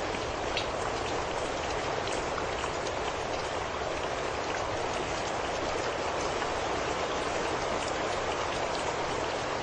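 Steady rain falling, a constant hiss with single drops ticking now and then.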